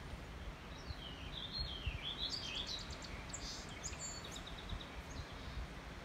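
A songbird singing a varied phrase of sweeping high notes and quick trills for a few seconds, over a steady low rumble.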